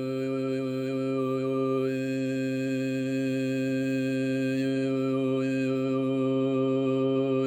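Throat singing, in the Tuvan khöömei style: one unbroken low drone held at a steady pitch, with a high overtone line above it that shifts between a few notes now and then.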